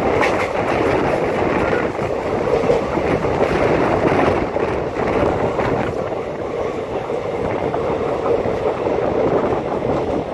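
Passenger train coach running at speed, heard from its open window: a steady rumble of steel wheels on rail, with a few sharp clicks near the start.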